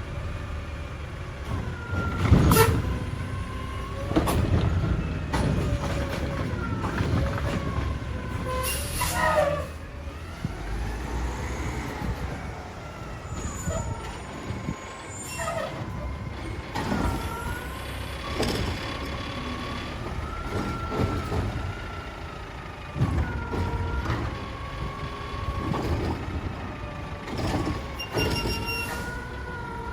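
Mack LR garbage truck working its Heil Durapack Rapid Rail side loader: the diesel engine runs under a wavering hydraulic whine that rises and falls. Several sharp bangs and hisses cut in, including an air-brake release about nine seconds in.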